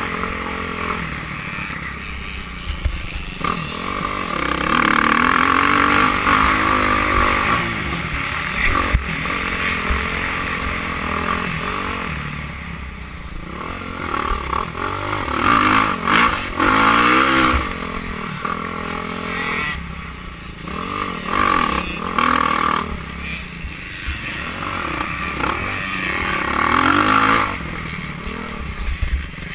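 Motocross bikes racing, their engines revving up and down over and over as they pass and work the track, the loudness rising and falling.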